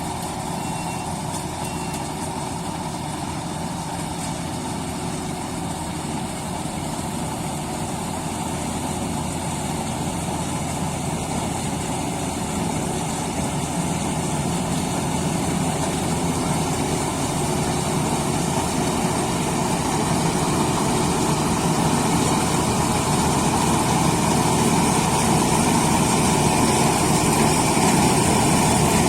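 A heavy machine's engine running steadily, growing slowly louder.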